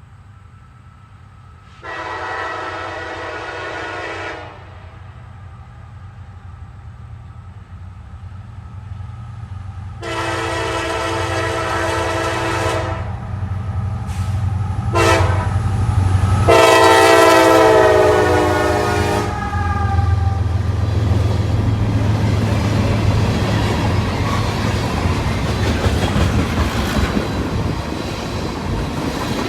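Nathan Airchime K5LA five-chime horn on an EMD SD70ACe locomotive sounding the grade-crossing signal: long, long, short, long, the last blast the loudest. Under it the locomotive's diesel engine rumbles as it approaches, and from about twenty seconds in the train rolls past with wheels clattering over the rail joints.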